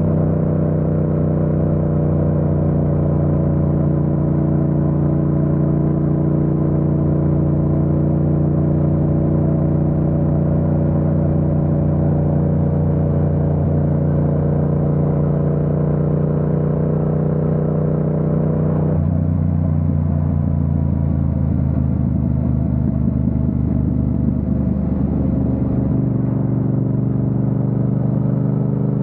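Yamaha MT-07 parallel-twin engine running under way at a steady cruise. Its note changes abruptly about two-thirds of the way through, and the pitch climbs again near the end.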